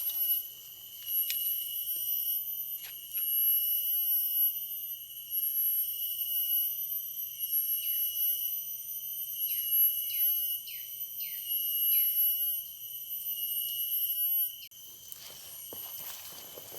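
A high, steady ringing tone that switches on and off every second or two, with a quick run of about six short falling bird chirps in the middle.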